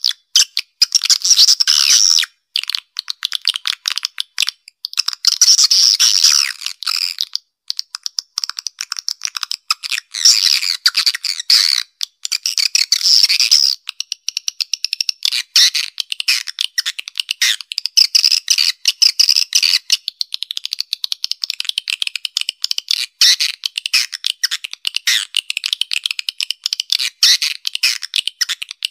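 Swiftlet call recording used to lure swiftlets: a dense, continuous twitter of rapid clicks and buzzy chirps, with all the low end cut away.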